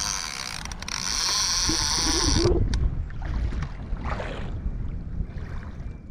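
Water rushing and splashing around a small ocean kayak, with wind on the microphone. A loud rush lasts about two and a half seconds, then softer splashes follow.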